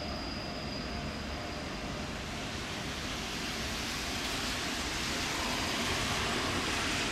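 Freight train's last wagons rolling away down the track: a steady rushing rumble. Over the second half the noise grows a little louder and hissier.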